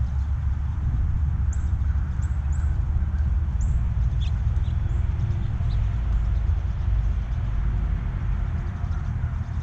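A steady low rumble throughout, with small birds giving several short, high chirps during the first half.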